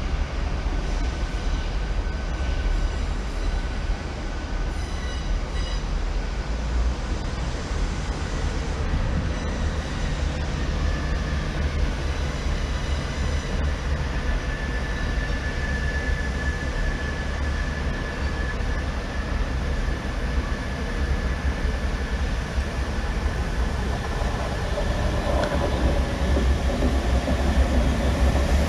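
Diesel train running at a station platform: a steady low engine rumble with a thin high whine through the middle, growing louder near the end.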